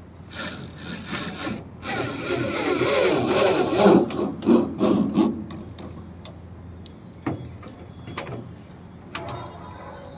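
Rough scraping or sawing strokes, one after another, for about the first five seconds, then a few separate sharp knocks.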